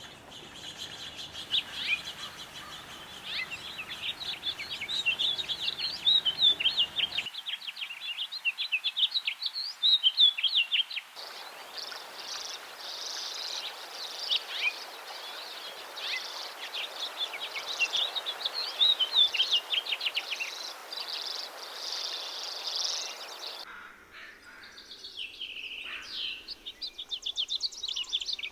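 Songbirds singing and calling with rapid high chirps and trills, in several recordings joined one after another, the background hiss changing abruptly at each join.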